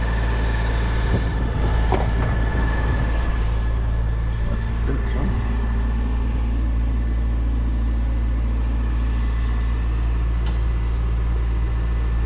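Vehicle engine running with a steady low drone, with a couple of faint knocks.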